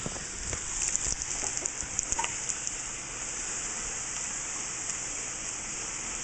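Fried dough (elephant ears) frying in very hot avocado oil: a steady high sizzle, with sharp crackles and pops over the first two seconds that settle into an even hiss.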